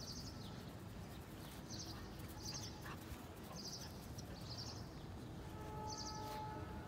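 A small bird calling: short, high trilled chirps, repeated about every second and often in pairs, over low steady background noise.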